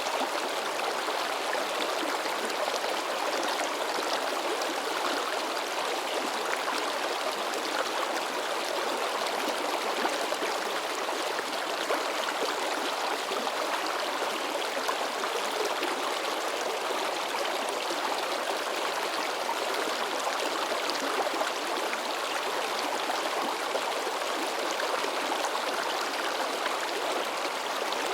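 A rocky mountain stream babbling and splashing over stones, a steady rushing flow with a constant flicker of small splashes.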